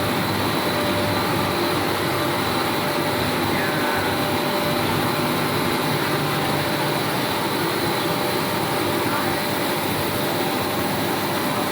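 Plastic-factory machinery running: a steady, unbroken mechanical din with a few constant humming and whining tones.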